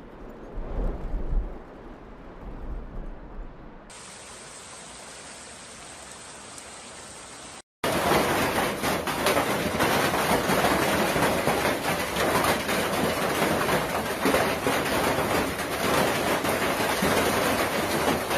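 Storm audio in several cut-together clips. First a low rumble with a faint wash of water, then a steady hiss. After a brief dropout comes a loud, dense pelting of hail or rain on hard surfaces, crackling throughout.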